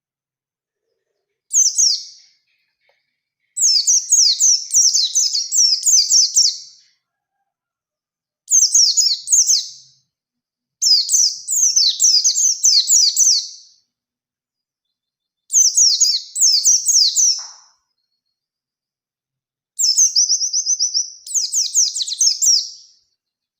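A white-eye (pleci) singing in repeated bursts of rapid, high, down-slurred notes, each phrase one to three seconds long with short pauses between. Near the end, one phrase opens with a steady held whistle before the rapid notes. This is the fast 'nembak' song that hobbyists use to set other white-eyes singing.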